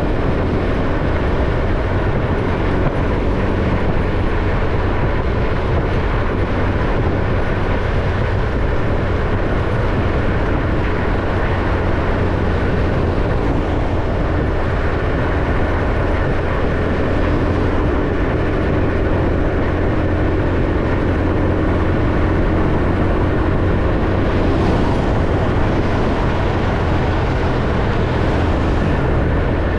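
Ordinary motorcycle riding along at a steady cruise: engine running with road and wind noise, heard from on the bike.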